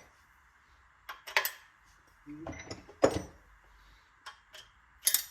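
Hand tools and metal engine parts being handled: a handful of short, separate clicks and knocks, the sharpest about three seconds in, with a brief murmur from the worker shortly before it.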